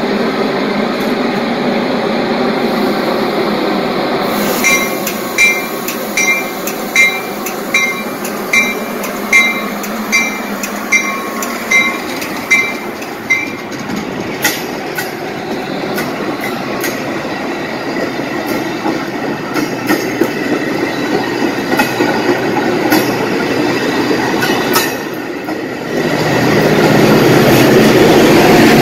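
Metra commuter train's bilevel passenger cars rolling past a grade crossing, wheels clacking on the rails. From about five seconds in, a bell dings about a dozen times, roughly once every 0.8 s. Near the end the sound grows louder and deeper as the diesel locomotive pushing at the rear comes up.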